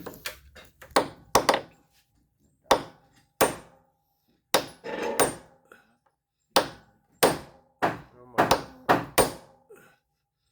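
Repeated blows of a hand tool striking wood during boatbuilding, about fifteen irregular strikes, each with a brief metallic ring.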